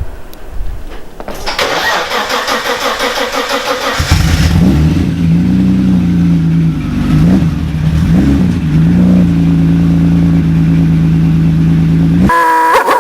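A 1987 BMW 325i's straight-six, with no exhaust fitted, cranked on the starter for about two seconds, then catching and running with two brief blips of revs. The engine sound cuts off suddenly near the end.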